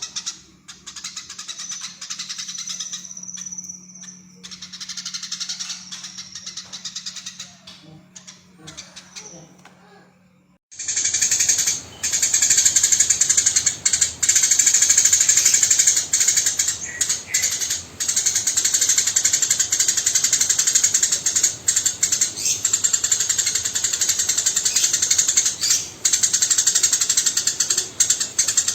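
Eurasian tree sparrow chirping in quick, harsh strings of calls, with a low steady hum underneath. About ten seconds in, a louder recording takes over: dense, rapid chattering chirps with hardly a break.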